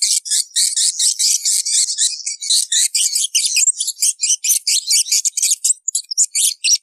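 Many edible-nest swiftlets twittering in a dense, unbroken chorus of rapid, high-pitched buzzy chirps. This is the swiftlet-farming call track of a large flock arriving, used to lure swiftlets into a bird house.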